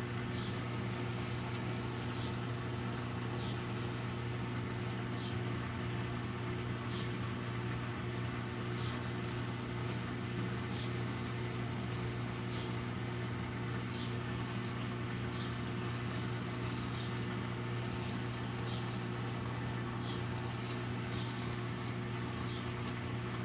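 Electrolux Essential Care LES11 11 kg washing machine running with a steady electric hum. Short high chirps recur every couple of seconds.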